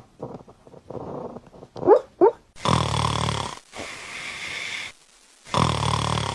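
A sleeping dog snoring, with loud rasping snores about three seconds apart. Two short high squeaks come about two seconds in.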